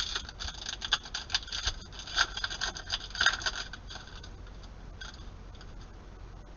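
Crinkling and scraping of a trading-card pack being torn open and its cards slid out, a dense run of small crackles over the first four seconds or so.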